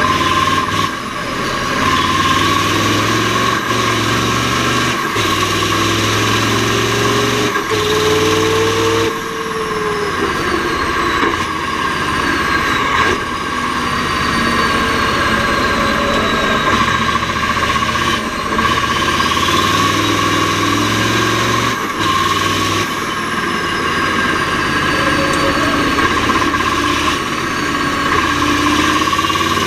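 Mack R-series V8 race truck engine running hard under load, its note breaking off briefly every few seconds and picking up again, as the Roadranger gearbox is shifted. A steady high whine runs underneath.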